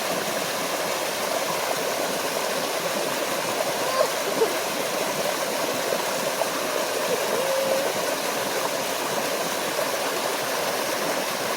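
A small forest waterfall pouring into a stream: a steady, even rush of water that holds the same level throughout, with a little faint gurgling now and then.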